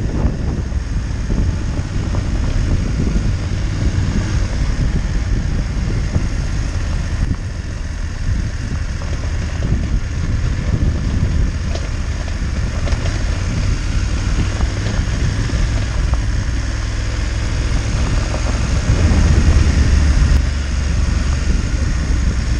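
Motorcycle engine running at low speed, with wind rumbling on the bike-mounted camera's microphone; the low rumble swells briefly near the end.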